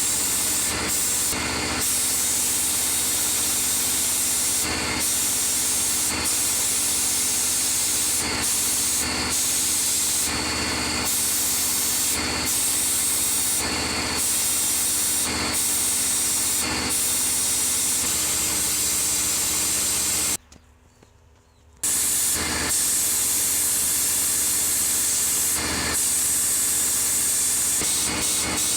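Compressed air hissing steadily from an air tool over a steady machine hum. It cuts out for a moment about twenty seconds in, then starts again.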